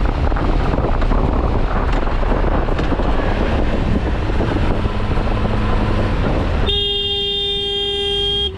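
Steady rushing wind and road noise from a moving vehicle. Near the end it gives way to a vehicle horn held steadily for nearly two seconds.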